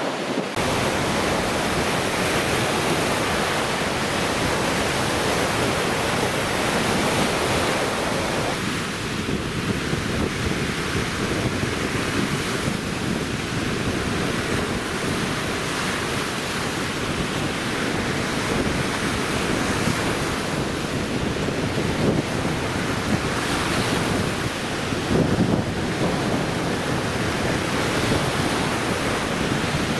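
Lake Michigan waves breaking steadily on the shore, a continuous wash of surf, with wind gusting on the microphone.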